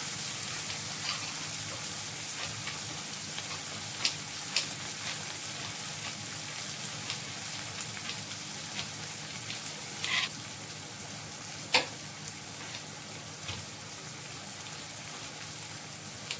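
Onions frying in oil in a kadai: a steady sizzle, broken by a few sharp clicks about 4, 10 and 12 seconds in, the last the loudest.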